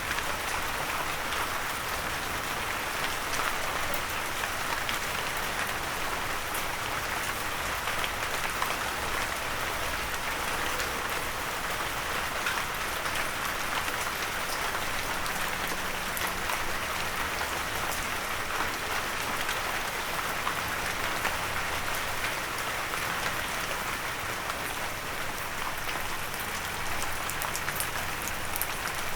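Steady rain with many small drops pattering on a windowsill, an even hiss over countless fine ticks.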